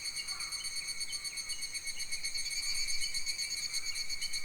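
A steady, fast-pulsing insect trill with a high, even drone, a summer forest insect chorus, with a few faint short bird chirps over it.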